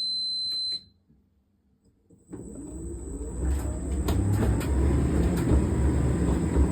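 Hotpoint SUTCD97B tumble dryer started up: one high electronic beep from the control panel, then about two seconds later the motor and drum start turning with a low rumble that builds and steadies as it spins up on a temporarily refitted drive belt.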